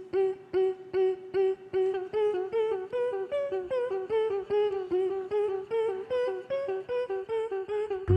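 Vocal performers making a plucked-instrument melody with their mouths. A short, staccato note repeats about two and a half times a second, then quicker notes join in, stepping up and down in a tune.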